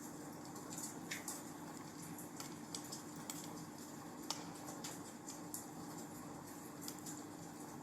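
Wood fire in a fireplace crackling: irregular sharp pops and snaps over a soft steady hiss, the sharpest pop about four seconds in, with a faint steady low hum underneath.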